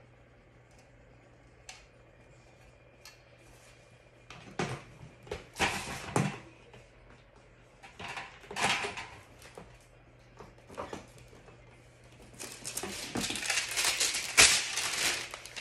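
Metal parts and hand tools of a tumbler turner kit being handled during assembly: irregular clinks, rattles and rubbing that start about four seconds in. The busiest, loudest stretch is near the end.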